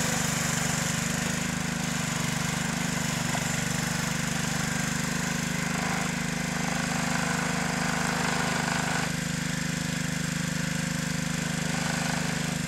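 Small tractor engine running steadily with a fast, even beat.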